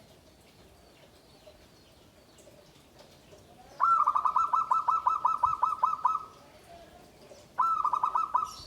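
Zebra dove (perkutut) calling: a rapid run of about a dozen clear, loud notes, roughly five a second, then after a pause of about a second a shorter run of about five notes.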